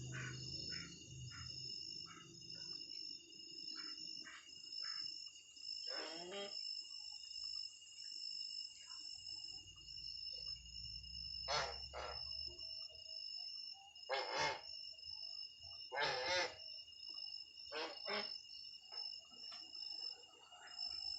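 Insects chirring steadily in two high, even tones, the upper one pulsing. Several short animal calls break in at intervals.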